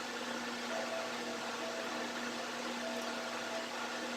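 Steady background hiss with a low steady hum, room tone with no eating sounds or clicks standing out.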